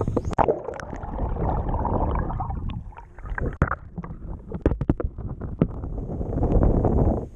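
Water splashing and sloshing around a kayak as it is paddled, with a cluster of short, sharp knocks a few seconds in.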